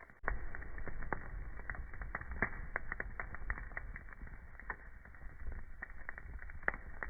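Wood fire crackling in a fireplace: dense, irregular pops and snaps over a low rumble. The sound gets suddenly louder just after the start.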